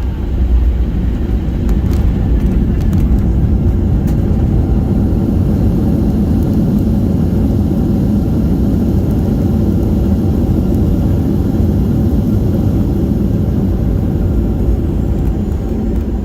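Steady low rumble inside the cabin of a Boeing 737-700, the noise of its engines and the airframe, heard from a seat near the front. A few faint clicks come in the first few seconds.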